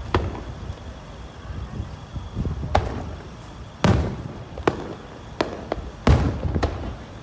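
Aerial firework shells bursting: a string of about eight sharp bangs at uneven intervals. The two loudest, about four and six seconds in, trail a low rumble.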